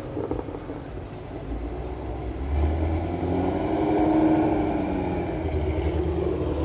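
Car engine and exhaust running, its pitch rising over a couple of seconds and then easing back down.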